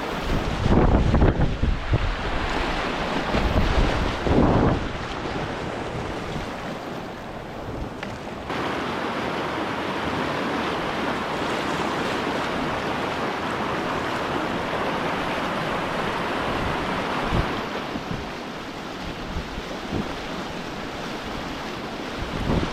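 Rushing whitewater river, a steady hiss of moving water, with wind buffeting the microphone in the first few seconds. The water gets abruptly louder about eight seconds in.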